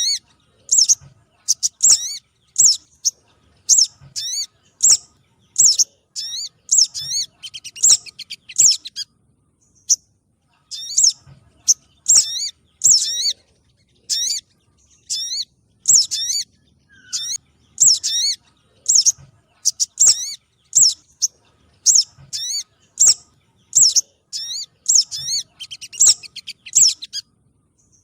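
Recorded lure call of spiderhunters and sunbirds: a run of sharp, high chirps with a quick swoop in pitch, about two a second, pausing briefly about a third of the way in and again about halfway.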